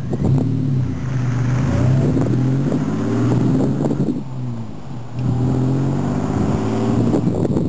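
Supercharged Toyota 4Runner engine revving through its Jardine aftermarket exhaust, the pitch climbing and falling back several times.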